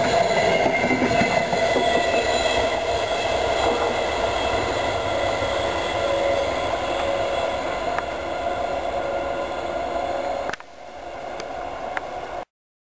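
Passenger coaches of an express train rolling past on the track: a steady rush of wheels on rail with a few held tones in it, slowly getting quieter as the train draws away. About ten and a half seconds in the sound drops abruptly to a quieter level, then cuts off near the end.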